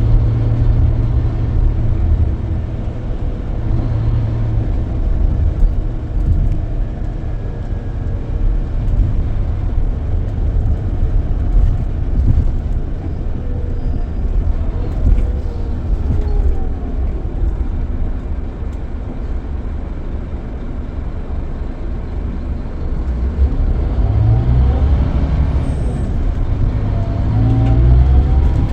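Scania K440EB coach's diesel engine running with a steady low rumble; about two-thirds of the way in its note falls, and near the end it rises twice as the coach accelerates.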